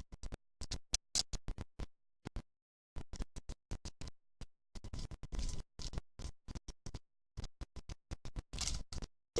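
Badly glitching recording: background music chopped into short stuttering fragments, with the sound dropping out completely several times a second and for about a second just after two seconds in.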